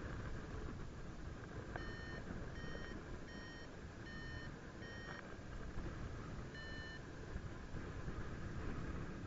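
Paragliding variometer beeping: five short beeps about two-thirds of a second apart, then one more after a pause, over a steady rush of wind on the microphone. The beeping signals that the glider is climbing in rising air.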